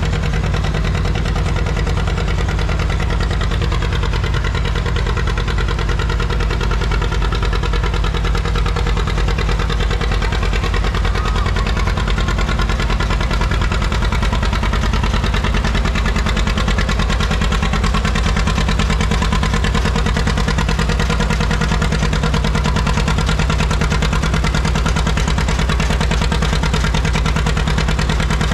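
1959 John Deere 630 tractor's two-cylinder engine running steadily, its even pulsing exhaust note holding a fairly constant pitch.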